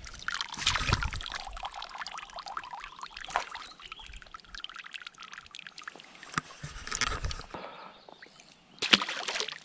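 Water splashing and trickling in uneven sloshes, louder about a second in, around seven seconds and again near the end.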